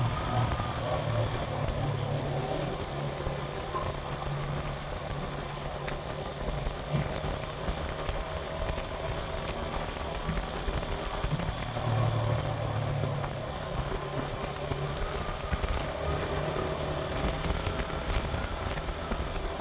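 Suzuki GN125's single-cylinder four-stroke engine running under way, its note swelling and easing a little, with steady wind and road noise over it.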